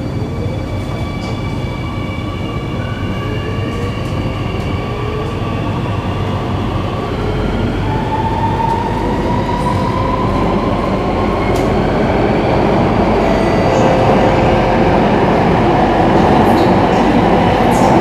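Singapore MRT electric train pulling away and speeding up. Its traction motors whine in several tones that glide upward in pitch, while the rumble of the wheels grows steadily louder.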